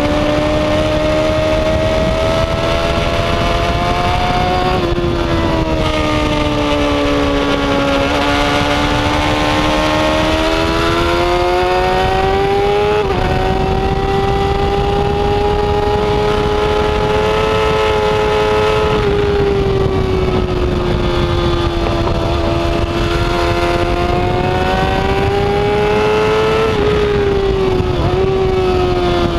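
Yamaha R6 race bike's inline-four engine running hard at high revs on track: the pitch climbs and sags continuously through the lap, with sudden steps in pitch at gear changes about five, thirteen, nineteen and twenty-seven seconds in, over a steady rush of wind noise.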